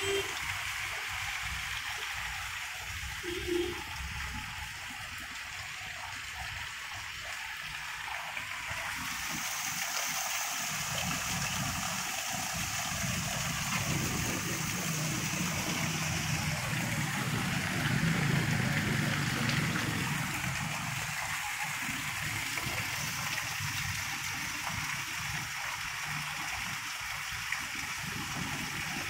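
Heavy rain pouring onto a flooded yard, a steady hiss of drops splashing into standing water, growing a little fuller and deeper about halfway through.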